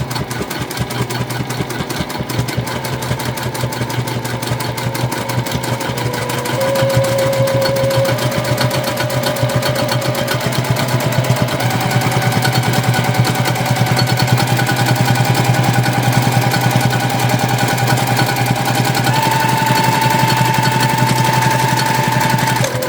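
Sewing machine running continuously, stitching a straight quilting line through fabric and batting. Rapid, even needle strokes over a motor hum, with the motor whine stepping higher in pitch a few times as it speeds up.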